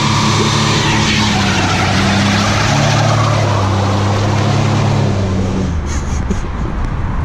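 Chevy pickup's V6 engine held at high revs during a burnout, with the spinning tyres adding a loud hiss over the engine note. The revs and tyre noise ease off about six seconds in.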